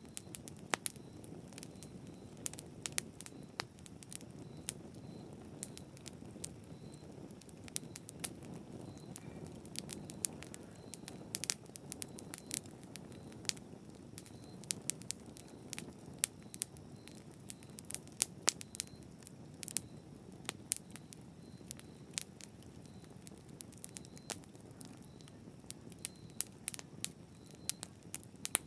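Campfire burning steadily: a low rush of flames with frequent sharp, irregular crackles and pops of burning wood.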